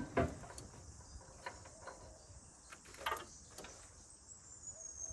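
Insects chirping steadily in a high register, with a thin high-pitched trill coming in near the end. A few scattered metallic knocks and clunks sound over it, the loudest just after the start and about three seconds in.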